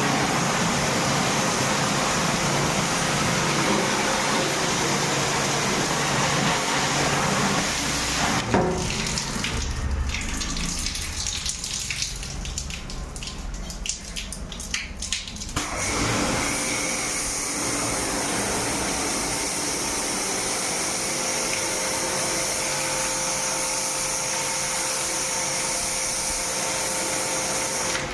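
Steady spray of water with a faint motor hum underneath. About eight seconds in it drops away for some seven seconds, leaving scattered clicks and splashes, then starts again steadily.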